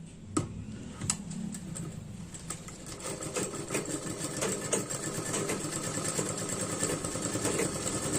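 Sewing machine stitching tucks (darts) in blouse fabric: two sharp clicks near the start, then the machine runs in a rapid even tick that picks up and grows louder after about three seconds.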